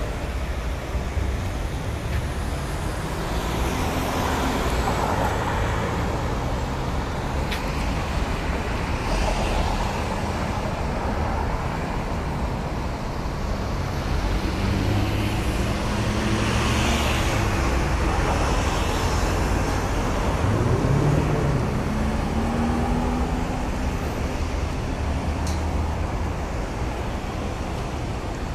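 Mercedes-Benz SL65 AMG's twin-turbo V12 engine running with the car stationary, its pitch rising and falling as it is revved, with one clear rev rise and fall about three quarters of the way through.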